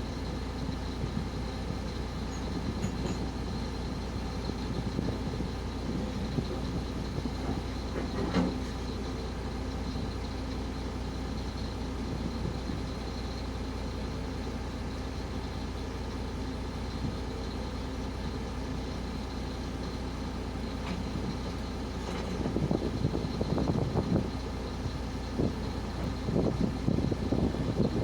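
Truck engine running steadily, with a single knock about eight seconds in and louder, uneven rattling and knocking over the last several seconds.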